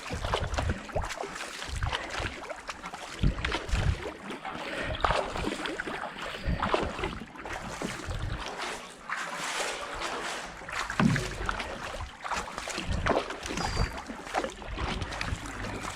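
Kayak paddle blades dipping into and pulling through canal water, with repeated splashes and water rushing past the hull as the boat is paddled at pace.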